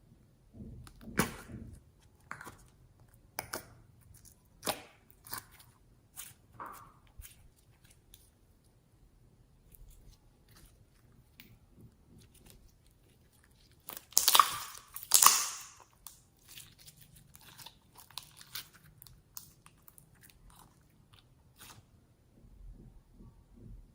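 Slime and the things being mixed into it handled up close: scattered sticky clicks and crunches, with two louder crunching bursts about 14 and 15 seconds in.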